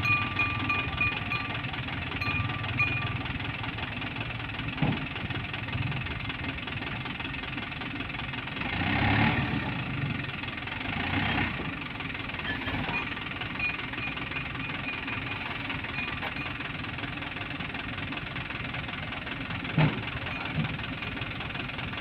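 Diesel engine of a sand-loaded dump truck running steadily, swelling louder for a moment about nine seconds in, with two sharp knocks.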